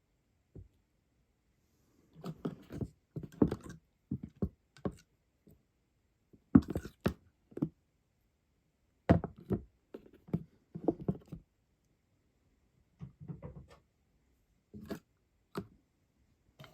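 Irregular clusters of light knocks and thunks on a hard surface, several quick hits at a time, with pauses between the clusters.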